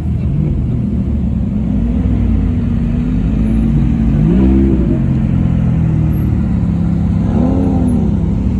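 Car engines running at low speed, with two short revs about four and a half and seven and a half seconds in.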